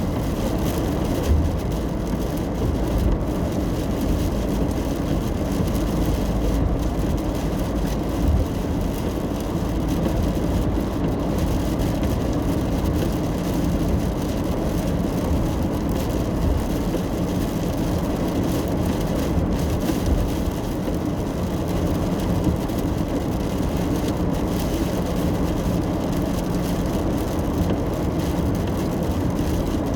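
Steady low road and engine rumble of a car heard from inside the cabin while driving at a constant pace.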